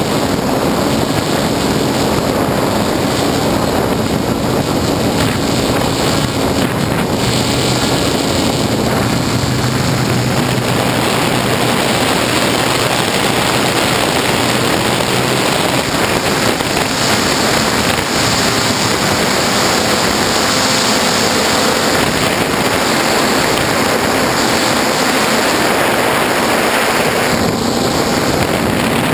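Brushless motors and propellers of an F450 quadcopter running in flight, heard from its onboard camera as a loud, steady rushing whir with wind noise on the microphone and a faint hum that shifts slightly in pitch.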